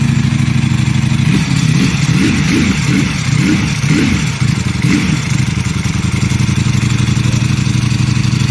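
Ducati superbike engine running steadily under way, with its pitch rising and falling several times in the first half.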